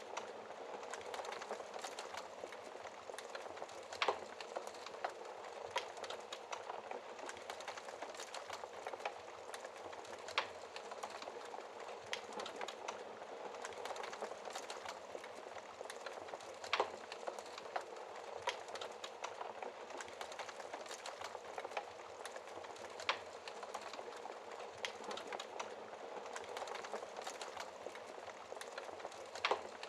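Wood fire burning in a fireplace, crackling steadily with a soft hiss and many small snaps, and a louder pop about every six seconds.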